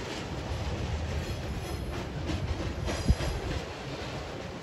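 Freight train rolling across a railway bridge: a steady low rumble of wagons with repeated wheel clacks over the rail joints, and one sharper knock about three seconds in.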